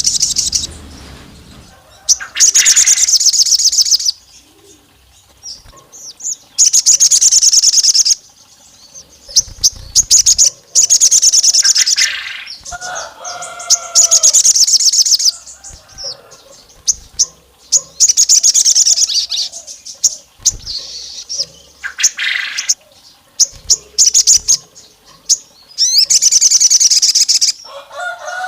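Sogon songbird singing: bursts of very rapid, high-pitched chattering trills, each about two seconds long and repeated every few seconds. A lower, shorter warbling phrase comes in around the middle.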